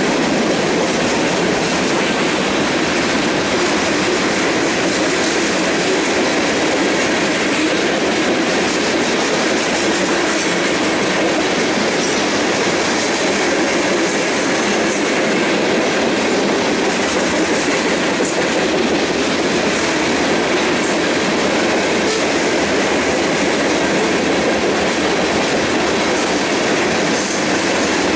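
Freight train cars rolling past at speed, a steady rumble of steel wheels clattering over the rail joints.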